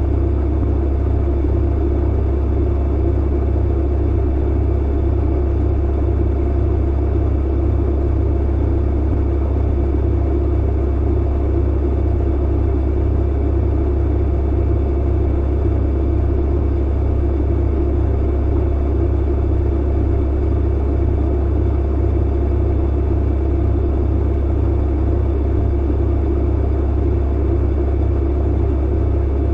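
Tumble dryer running: a steady low rumble and hum from the motor and turning drum, unchanging throughout.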